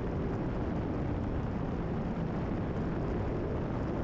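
Cessna 172RG's 180 hp Lycoming O-360 engine and propeller droning steadily in cruise flight, heard from inside the cabin.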